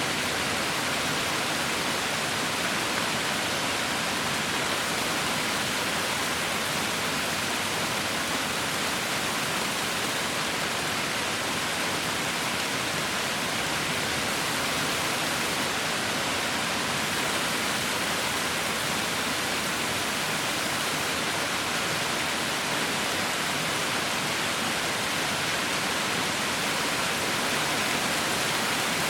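Heavy rain falling in a steady, even hiss with no breaks or single drops standing out.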